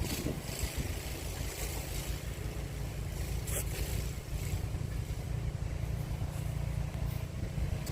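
Small engine of a snowblower running steadily while clearing snow.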